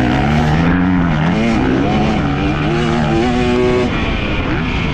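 Motocross dirt bike engine revving up and down with the throttle. Its pitch climbs and falls several times and drops away sharply about four seconds in.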